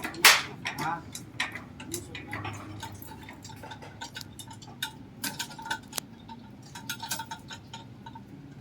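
Irregular metallic clinks and knocks from metal engine parts and tools being handled and shifted, with the loudest clank just after the start.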